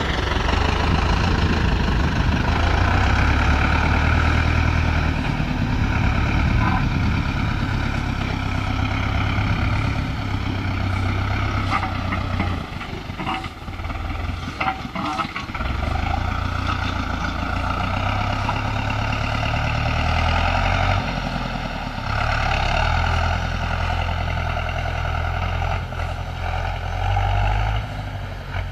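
SAME Centurion 75 tractor's diesel engine running steadily with a deep rumble. About halfway through it eases off for a few seconds, with a few knocks, then runs on as before.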